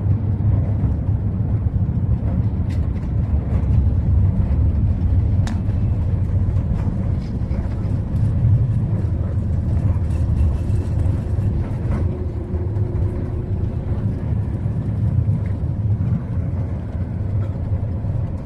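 Steady low rumble of an Airbus A380-800 heard from inside the passenger cabin, with a few faint clicks and rattles over it.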